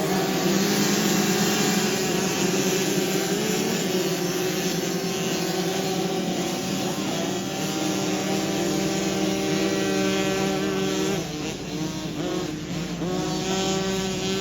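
Dirt bike engines running on a motocross track, a steady drone. From about 11 s in, the pitch wavers up and down as throttles are opened and closed.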